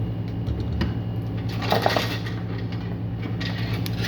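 Metal hand tools clinking and clattering as they are handled and set down, with a short cluster of ringing metallic knocks about two seconds in, over a steady low hum.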